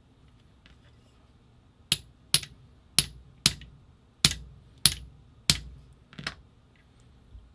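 About eight sharp hammer strikes, roughly half a second apart, knocking at a stuck part of an Angel LCD paintball marker to drive it out.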